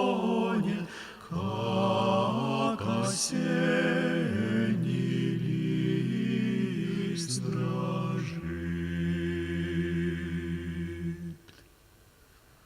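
Male vocal quartet singing a cappella in close harmony, holding long chords. A final chord over a deep bass note is sustained for about three seconds and stops about eleven seconds in, leaving near silence.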